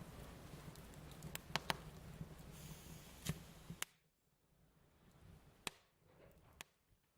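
Wood fire crackling, with sharp pops over a steady low hiss. About four seconds in, the background hiss cuts off abruptly, leaving only a couple of isolated pops.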